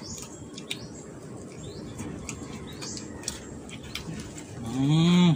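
Birds chirping faintly in the background, with scattered small clicks. Near the end comes a short, louder hum from a person, rising and then falling in pitch.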